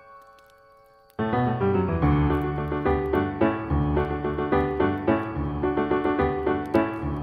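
Piano music: one piece's last notes die away into a brief hush, then about a second in a new piece starts with full chords over a bass line. Faint crackles of a campfire sound beneath.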